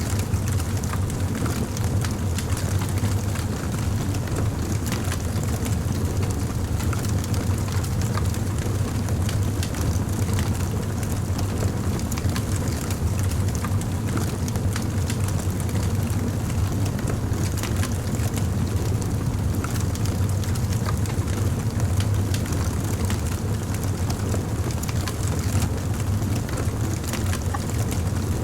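Crackling fire: a steady low rumble of burning with frequent small, sharp pops and crackles scattered irregularly throughout.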